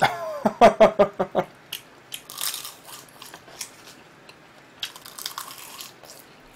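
Close-miked chewing of a mouthful of food: crisp crunches and wet mouth clicks, scattered and irregular. It is preceded by a short voiced laugh in the first second and a half.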